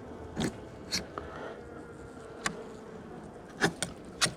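Honey bees buzzing around an open hive with a faint, steady hum. About six sharp clicks and knocks come from hive parts being handled, the loudest near the end.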